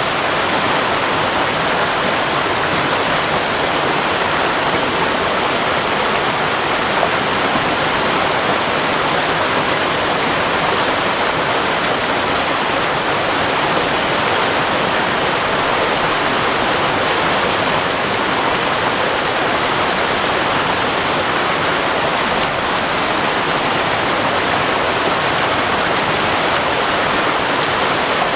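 Waterfall pouring steadily onto rock, a constant even rush of falling water.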